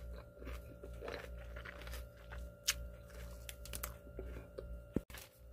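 A person chewing napa cabbage kimchi close to the microphone: a series of irregular, crisp crunches from the raw cabbage, very crunchy.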